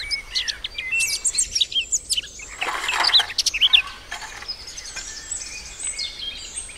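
Several small birds chirping and calling in quick, overlapping short notes, with a short rushing noise about two and a half seconds in.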